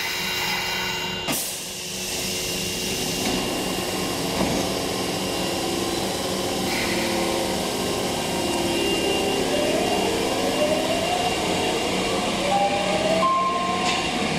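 Osaka Metro Tanimachi Line electric train running, with a steady rush of noise; a knock about a second in, and from about two-thirds of the way through a rising motor whine as the train gathers speed.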